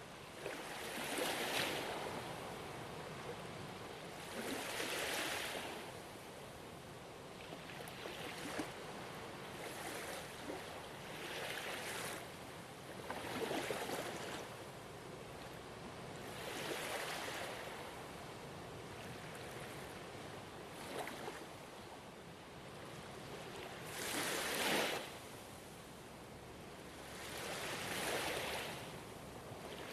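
Gentle ocean waves washing onto a shore, each wave a soft swell of hiss that rises and falls every three to four seconds, with a louder one about two-thirds of the way through.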